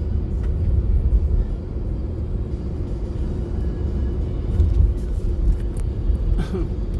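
Low, steady rumble of a car's engine and road noise heard from inside the cabin, with a faint steady hum running through it.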